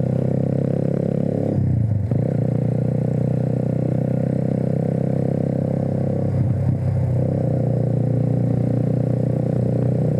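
Kawasaki W175's air-cooled single-cylinder engine running steadily under way, with brief dips in the engine note about a second and a half in and again about six and a half seconds in.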